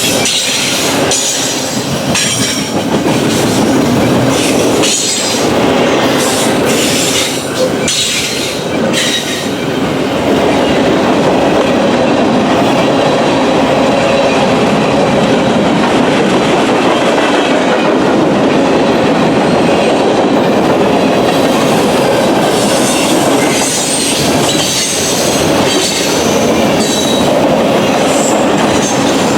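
Norfolk Southern freight train's cars rolling along the track, the wheels clicking in quick runs over rail joints with a faint high wheel squeal over a steady rumble.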